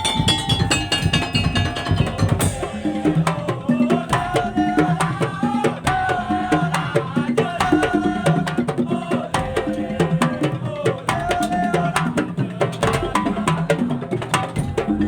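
Madurese tong-tong (daul) ensemble playing: wooden slit drums and drums keep a fast, even beat under a melody that bends in pitch.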